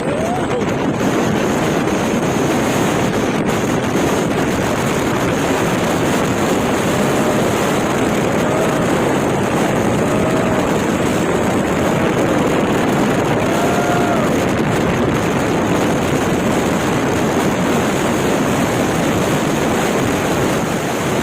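Steady loud truck running noise mixed with wind on the microphone, with faint tones rising and falling through the middle.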